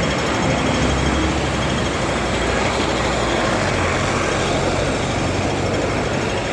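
City street traffic: a large vehicle's engine running close by over a steady wash of road noise.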